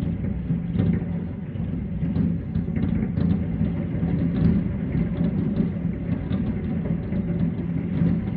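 A fireworks barrage heard from a distance: shell bursts blur into a continuous low rumble, with scattered pops and cracks throughout.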